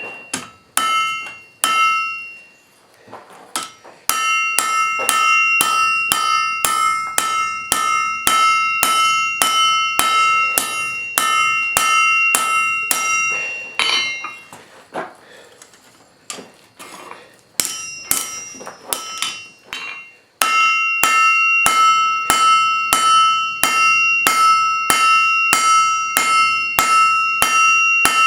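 Blacksmith's hammer striking hot steel on an anvil, about two blows a second, each blow ringing with the same few clear pitches. The hammering slackens to scattered lighter blows twice, then picks up again into a steady ringing rhythm.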